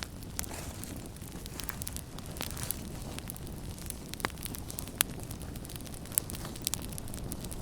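Wood campfire burning: a steady low rumble of flames under frequent, irregular sharp crackles and pops, with a louder pop about five seconds in.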